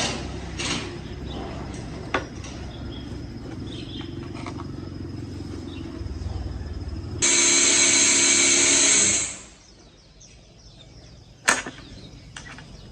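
Two-stroke Stihl chainsaw engine running steadily at low speed, then loud for about two seconds partway through as it is revved, before dropping away to a faint sound. A single sharp knock comes near the end.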